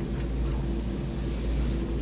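Steady low rumble with a constant hum, like a running motor, under a few faint crinkles of paper being folded.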